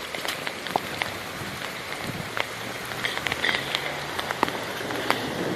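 Rain and water dripping after a hailstorm: a steady patter with many scattered sharp drips and taps.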